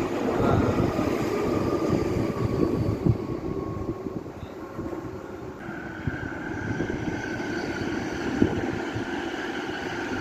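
Electric train running past, a steady rumble of wheels on the rails with scattered knocks.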